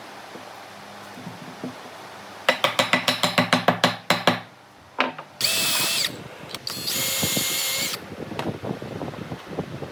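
Power tool at work on wood: a quick run of sharp clicks for under two seconds, then two short bursts of whining motor about a second each.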